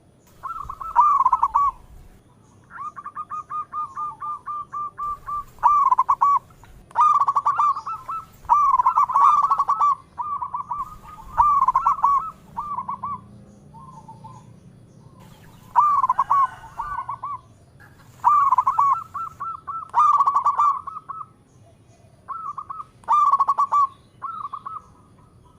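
Zebra dove (perkutut) singing its cooing song, phrase after phrase with short pauses between. A fast, even run of rolling notes comes a few seconds in.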